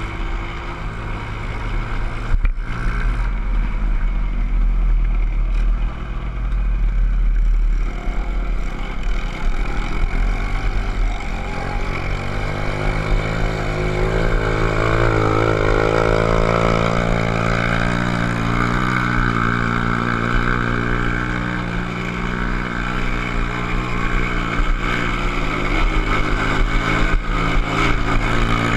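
Dirt-bike engine running under way, its pitch shifting up and down, over a steady low rumble.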